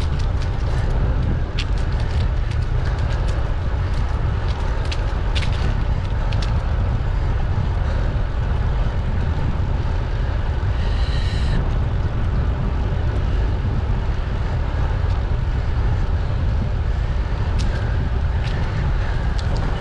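Wind buffeting the microphone and tyre rumble of a bicycle riding along a road, a steady low rush with scattered small clicks and rattles. About halfway through there is one brief high-pitched squeal lasting about a second.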